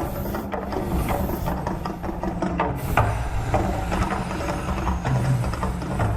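Mirage volcano eruption show: a loud, steady low rumble with crackling, and short bursts of hiss near the start, about a second in and about three seconds in.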